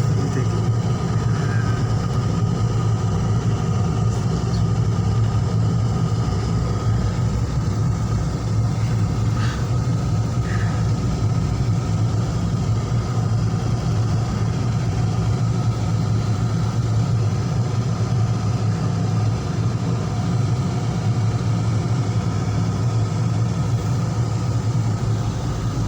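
Steady low engine rumble of a running vehicle, unchanging throughout.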